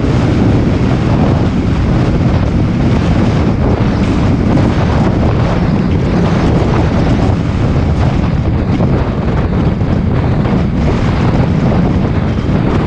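Wind rushing over the microphone of a camera riding on a moving bus, over the bus's steady engine and road noise.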